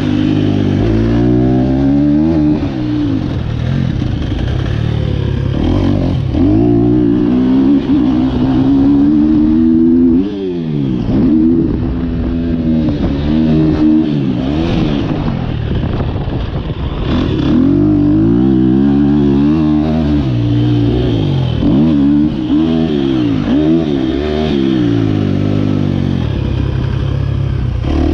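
2023 KTM 250 SX-F single-cylinder four-stroke dirt bike engine with an Akrapovic Evolution Line exhaust, heard from the rider's chest while riding a motocross track. Its pitch climbs repeatedly on the throttle and drops away off it, over and over through the lap.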